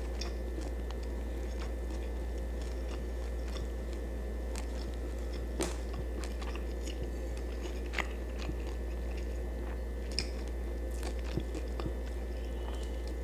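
A person chewing food close to the microphone, with soft mouth clicks and a few sharper crunches scattered through. A steady low hum runs underneath.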